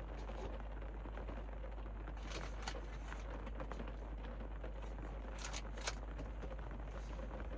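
Rain falling on the roof of a camper van, heard from inside, with scattered sharp drop ticks over a steady low hum.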